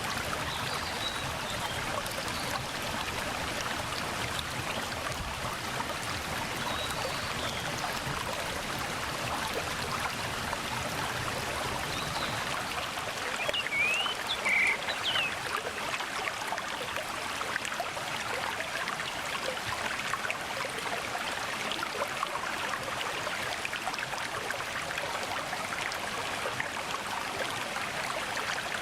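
Mountain stream running steadily over rocks. A bird gives a few faint chirps, with a short, louder burst of chirps about halfway through.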